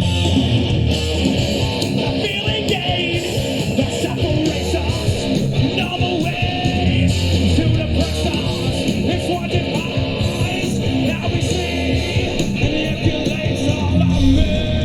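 Live rock band playing, with strummed electric guitar.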